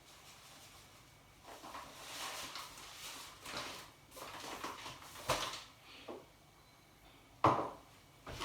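Kitchen handling noises: a few rustling swishes, then two sharp knocks, the second and loudest near the end, as containers and utensils are handled while oat porridge is prepared.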